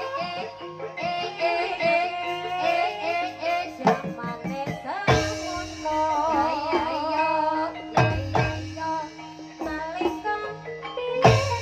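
A sinden, a female Javanese singer, singing a Banyumasan song with a wavering held note, over traditional instrumental accompaniment with steady pitched tones and heavy drum strokes about every three seconds.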